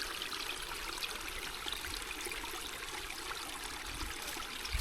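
Small stream running over rocks, a steady trickling rush.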